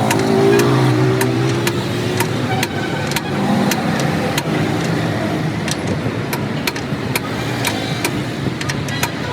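Motor vehicle engine on a busy road, its pitch gliding as it changes speed in the first couple of seconds, over steady traffic noise. Sharp clicks or taps, two or three a second, sound throughout.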